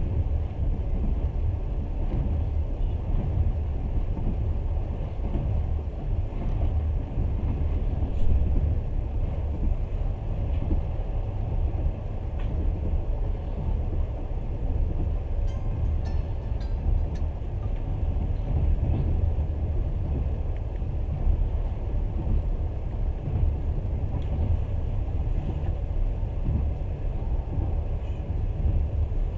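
Steady low rumble of a passenger train running along the line, heard from inside the carriage: wheels on the rails and the car's running gear, with a few faint ticks near the middle.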